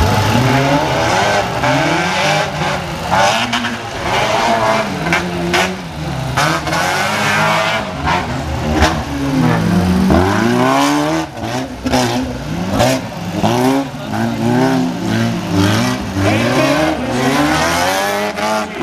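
Car engine being driven hard on a dirt course, its revs rising and falling again and again as it is pushed on and backed off. Short sharp knocks and clicks run through it.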